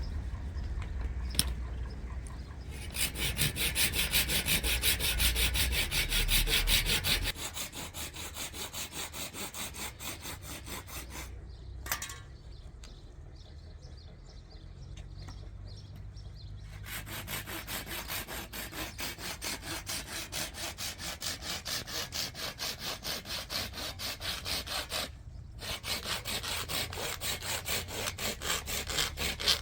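Hand saw cutting wood in steady back-and-forth strokes, about two a second, with a brief stop shortly before the end.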